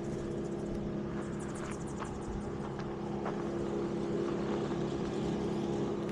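Wood chipper's engine running steadily at a constant speed, a steady drone.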